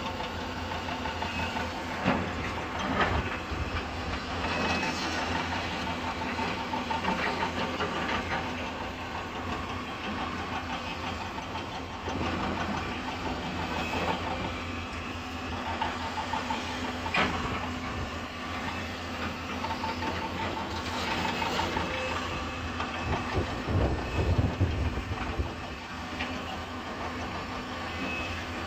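Hyundai 220 excavator's diesel engine running steadily while working, with occasional sharp knocks and clanks.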